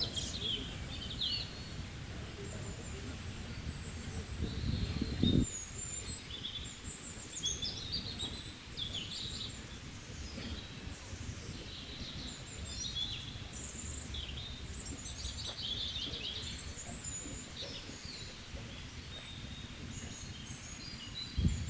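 Small birds chirping and twittering on and off, over a steady low rumble; the rumble swells louder about five seconds in.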